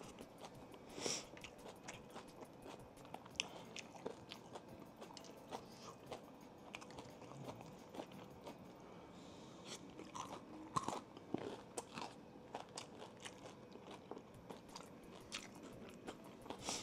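Close-miked chewing and biting into crispy fried chicken tenders, with repeated crunches throughout, the loudest about a second in and again around two-thirds of the way through.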